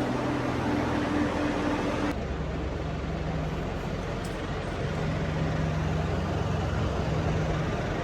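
Steady engine or machinery hum and rumble. About two seconds in it changes abruptly to a lower hum.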